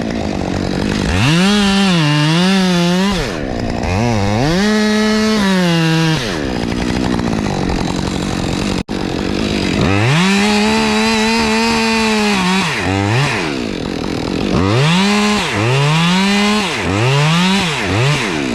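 Two-stroke chainsaw cutting white oak, its engine revving up and dropping back under load over and over, with a momentary break about nine seconds in.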